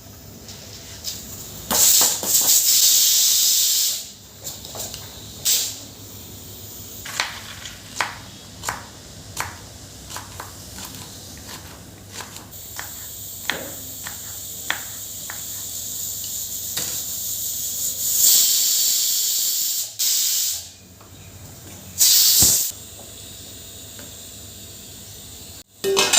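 Hot cooking in a pan: loud hissing in three bursts of a couple of seconds each, with light taps of a utensil against the pan in between.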